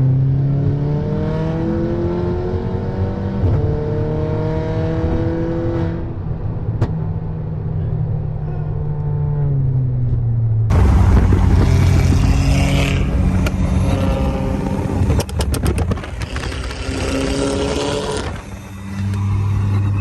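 Car engine accelerating, its pitch rising in steps, then holding steady and falling away about ten seconds in. A louder stretch of engine and road noise follows, with a quick rattle of sharp clicks about halfway through it.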